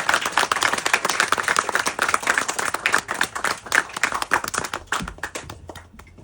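Audience applauding, many hands clapping that thin out and die away near the end.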